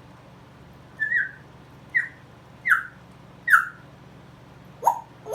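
African grey parrot giving four short, whistled chirps about a second apart, each falling in pitch, then two sharp, lower calls near the end.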